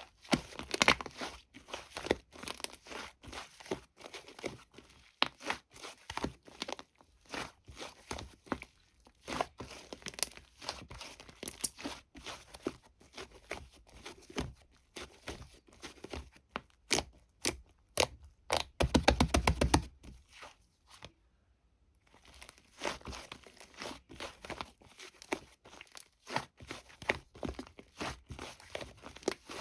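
Close handling noises: crinkling and tearing of paper or plastic with scattered taps and clicks. About two-thirds of the way through comes a quick dense run of ticks, then a short pause before the handling goes on.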